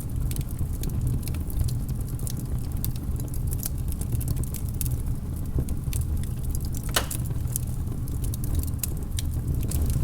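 Log fire in a fireplace crackling: frequent small pops and snaps, with a louder pop about seven seconds in, over a steady low rumble of the burning.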